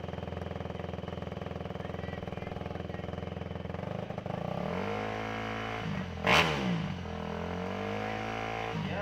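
Motorcycle engine idling with a steady fast pulse, then revved up and down from about halfway, with two loud sharp bursts near the end, about three seconds apart.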